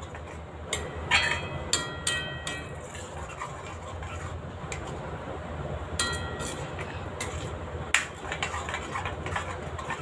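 Metal spoon stirring masala in a cooking pan, scraping and clinking against the metal with short ringing taps about a second in, around two seconds, near six and near eight seconds, over a steady low hum.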